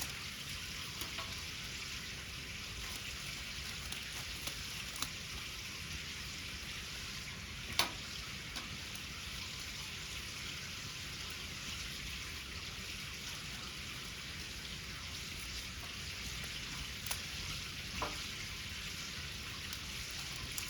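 Wood bonfire burning: a steady hiss with a few sharp crackling pops, the loudest about eight seconds in.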